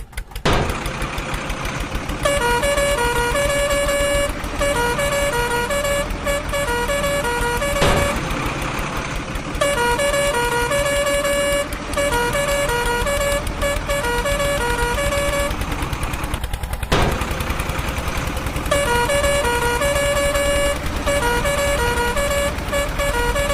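A musical vehicle horn playing a looping tune of short pitched notes over a steady low engine rumble. The tune breaks off twice, about 8 and 16 seconds in, and starts again each time.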